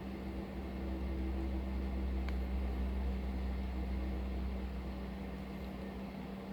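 A small motor running with a steady low hum, with a single faint tick about two seconds in.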